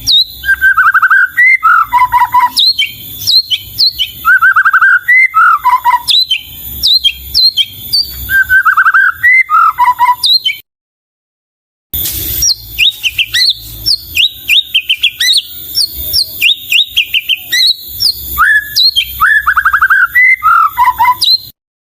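White-rumped shama (murai batu) singing loudly, repeating a phrase every two or three seconds: a fast trill that steps down in pitch, mixed with sharp higher chirps. The song breaks off completely for a second or so midway, then resumes and stops abruptly near the end.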